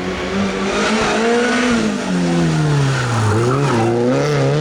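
Rally car engine running hard, its pitch sinking over a second or so past the middle and climbing again near the end, with tyre noise on the road surface.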